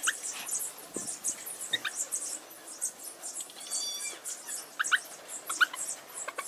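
Young puppies giving brief high squeaks and whimpers now and then, over a constant faint scratching and rustling.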